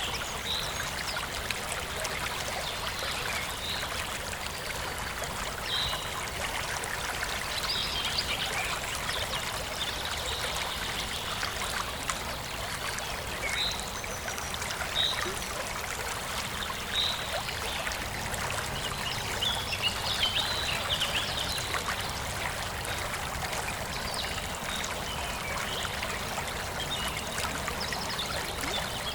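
Forest stream flowing and trickling steadily, with short bird chirps scattered over it every few seconds.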